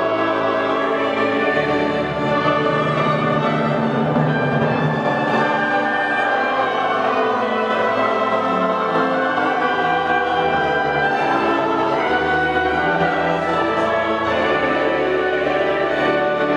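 Orchestra playing classical music in full, sustained chords.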